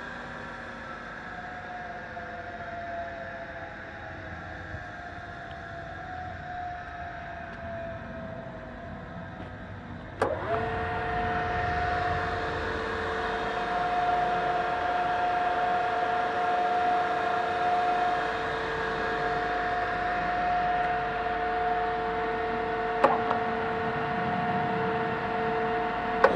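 Okamoto machine tool's electric motor and spindle: a whine slowly falling as it coasts down, then a click about ten seconds in as it is switched on, the whine rising quickly to a steady, louder running tone.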